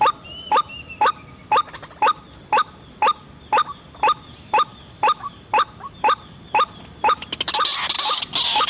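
White-breasted waterhen (ruak-ruak) calling: a sharp call repeated evenly, about twice a second. Near the end a denser, rougher stretch of sound takes over.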